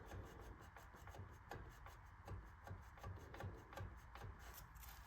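Faint rubbing with light, irregular clicks as a rust-stuck Clinton 410 small engine is rocked slowly back and forth by its flywheel, the piston just starting to move in the bore.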